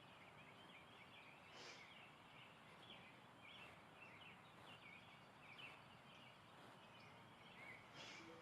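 Faint bird chirping, a quick series of short calls over a steady background hiss.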